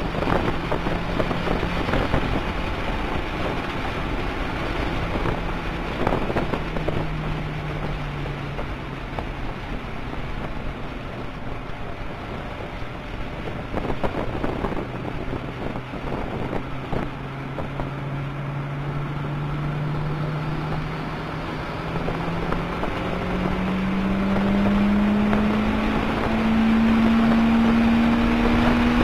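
Toyota MR2 Turbo's turbocharged 2.0-litre inline-four, heard from inside the cabin at speed on track. The engine note drops as the car slows for a corner about seven seconds in, then climbs steadily under acceleration through the second half, over constant wind and road noise.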